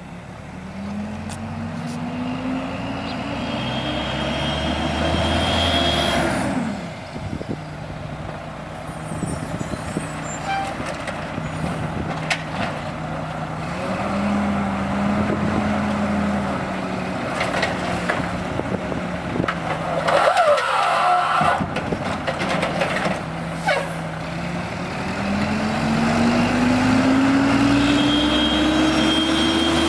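Garbage truck's diesel engine revving up and dropping back several times: a rise over the first six seconds, another about halfway, and a third near the end, with clanks and knocks in between.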